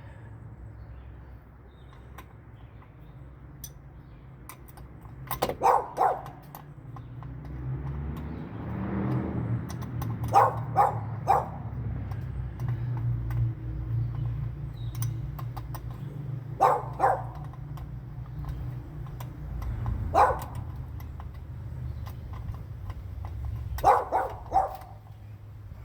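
A dog barking at intervals, in short runs of two or three barks every few seconds, over a low steady hum.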